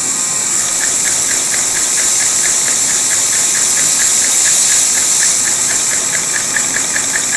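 Vacuum cleaner running on its lowest setting, with a steady whine, while the homemade K'NEX and Lego vacuum-powered engine it drives spins and clicks rhythmically, about four to five clicks a second, starting about a second in.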